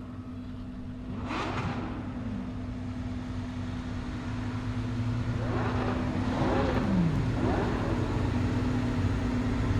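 BMW M5 F10's twin-turbo V8, fitted with catless downpipes and an M Performance exhaust, running with a steady low drone that grows gradually louder. It revs briefly about a second in and again a few times between about five and a half and seven and a half seconds, the pitch rising and falling back each time.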